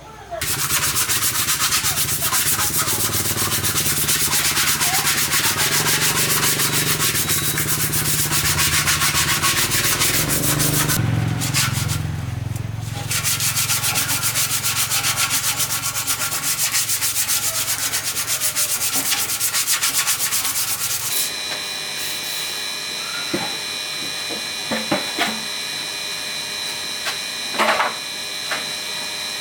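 Sanding: a steady, loud abrasive scrubbing that stops briefly twice and then ends about two-thirds of the way through. After it comes a steady high whine with scattered clicks and taps.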